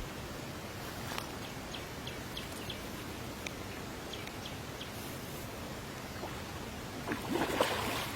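Steady outdoor water-side noise with short, faint chirps here and there, and a louder burst of rustling, splashing noise about seven seconds in.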